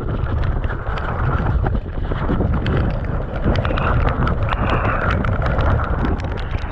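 Mountain bike riding down a wet, muddy trail: wind rushing over the camera's microphone over the low rumble of the tyres, with quick, irregular clicks and rattles from the bike and loose stones.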